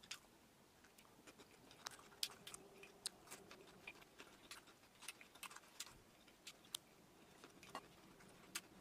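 Faint chewing of a mouthful of steak: soft, irregular little clicks of the mouth, a few a second.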